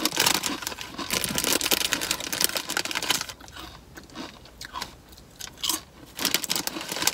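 Close-up chewing of crunchy chips: loud crackling crunches for about the first three seconds, then softer chewing. Near the end the foil chip bag crinkles as a hand reaches into it.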